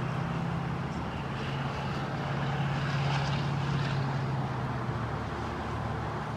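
An engine running steadily, a low drone that holds one pitch.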